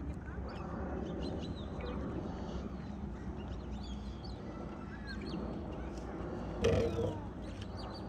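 Birds chirping in quick, short notes over a steady low rumble, with one louder, harsher call about two-thirds of the way through.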